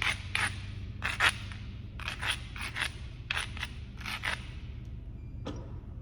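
Knapping tool scraping along the edge of a piece of Kentucky hornstone: about ten short rasping strokes, often in quick pairs, stopping after four and a half seconds, then a single sharp tick near the end. The strokes are typical of abrading the edge to prepare a striking platform.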